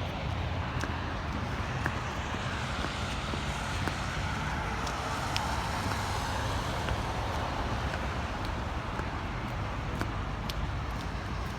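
A car passing on a snowy road: its tyre hiss swells through the middle and fades, over a steady low rumble of outdoor noise, with a few faint clicks.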